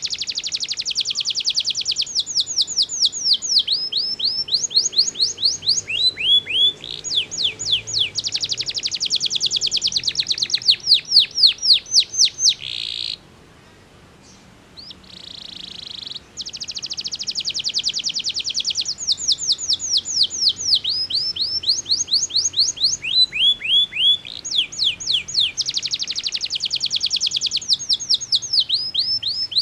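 Domestic canary singing in long, fast trills of rapidly repeated downward-sweeping notes, the pace and pitch of the rolls changing from phrase to phrase, with a short pause about halfway through.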